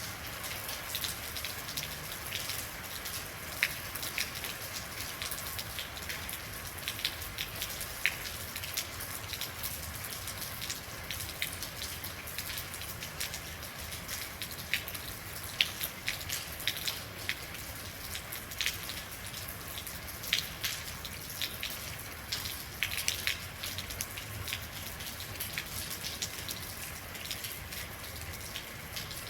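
Steady rain: an even hiss of rainfall with many individual drops striking close by as sharp, irregular ticks.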